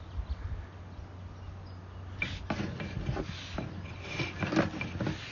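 Sewer inspection camera equipment with a steady low hum. From about two seconds in come scattered clicks and scrapes as the push cable and camera head are worked through the pipe.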